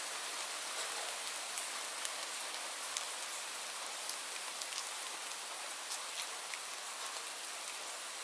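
Steady rain falling: an even hiss dotted with scattered sharp drop ticks.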